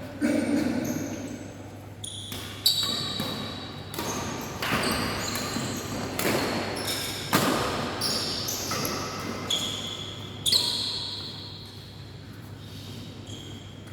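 Badminton rally on an indoor court: the shuttlecock struck by rackets again and again, a sharp hit roughly every one to two seconds, with short high shoe squeaks on the court floor between the hits.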